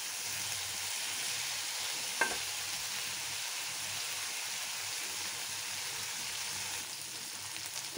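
Spiced potatoes and amaranth stems sizzling with a steady frying hiss in a black iron karahi, dry-fried in their spices now that the water has cooked off. A single light knock about two seconds in.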